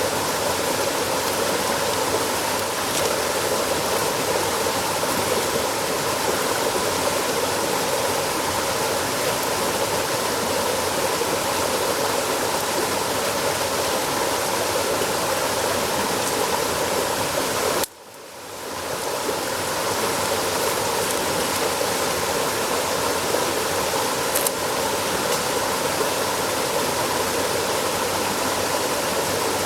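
Steady rushing of a flowing stream. The sound drops out abruptly about eighteen seconds in and fades back up, and there is a small click a few seconds later.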